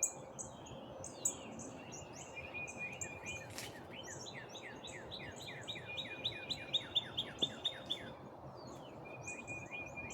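Several songbirds singing in a morning chorus: strings of short high chirps, a thin trill, and in the middle a fast run of repeated falling notes, over a faint steady outdoor background noise.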